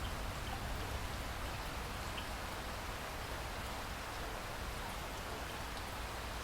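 Steady rain falling, an even hiss of many drops with a few faint individual drop ticks and a constant low rumble beneath.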